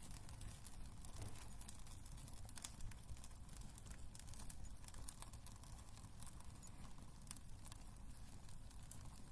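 Wood fire burning in a fireplace: a low, steady rumble of flame with irregular small crackles and pops of the burning wood.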